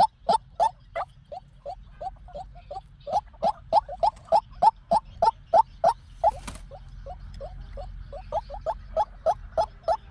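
White-breasted waterhen calling: a long series of short, hoarse notes repeated about three times a second, fading for a while then coming back louder. A brief hiss about six and a half seconds in.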